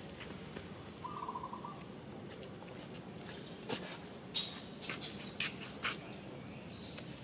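Outdoor background with a short trilled bird call about a second in, then several sharp, high clicks between about four and six seconds in.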